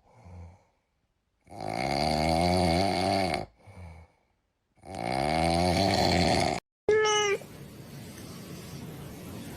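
Cat meme sound clips: two long, wavering, crying wails, then a short meow near the end.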